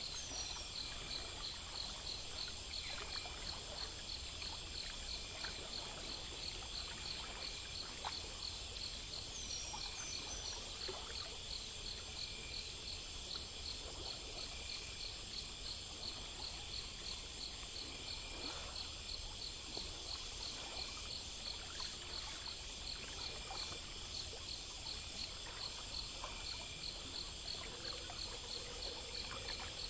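Night insects such as crickets chirping in a steady, even pulse of about three chirps a second, over a continuous soft trickle of running water.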